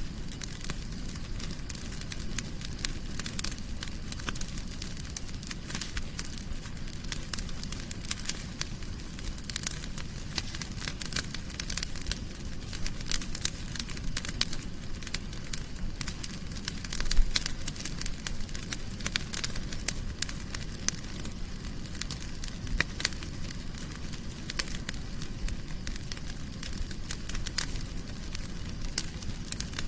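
Wood fire crackling in a fireplace: constant small snaps and pops over a steady low rumble of flame, with one louder pop a little past halfway.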